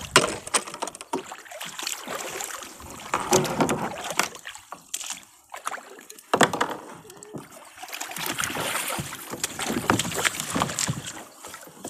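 Kayak being moved through the water toward shore, with irregular water noise and many short knocks against the hull.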